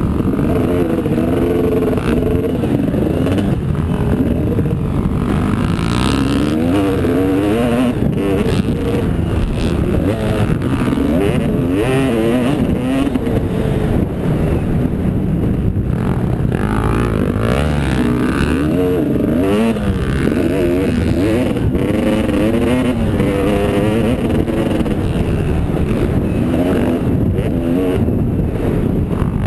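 Motocross motorcycle engines revving up and down without a break, their pitch constantly rising and falling as the bikes ride the track.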